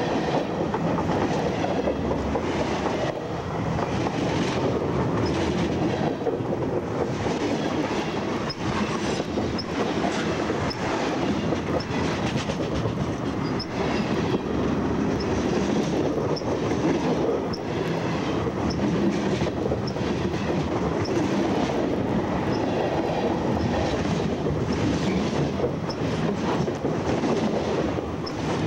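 Freight cars rolling directly over a microphone lying between the rails: a steady heavy rumble of steel wheels on rail, broken by repeated clacks as each wheelset passes overhead, with some faint wheel squeal.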